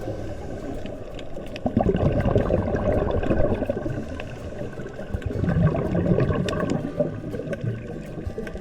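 Underwater bubbling and gurgling on a scuba dive, with small crackling clicks throughout. It swells about two seconds in and again about five and a half seconds in.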